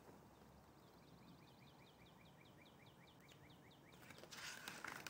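Near silence with a bird's faint chirping, a quick series of about four or five chirps a second lasting about three seconds. Near the end, a soft rustle as the picture book is handled.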